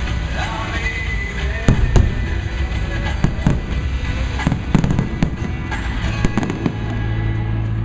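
Aerial fireworks going off in a rapid string of bangs and crackles, the loudest pair about two seconds in, with music playing under them.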